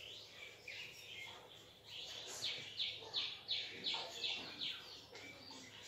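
A bird calling: a run of about eight short, high chirps, roughly three a second, starting about two seconds in.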